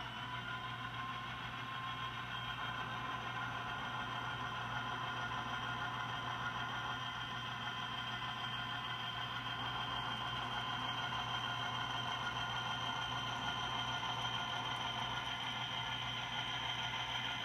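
Model railroad locomotive running on the layout: a steady motor whine and hum with wheel noise on the track. The pitch rises slightly in the first second or two, then holds steady.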